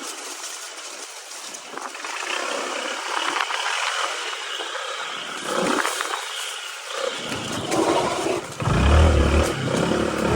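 Motorbike ridden over a rough dirt trail: engine running and tyres on loose, uneven ground. Heavy rumbling jolts come from bumps in the track, growing louder in the last few seconds.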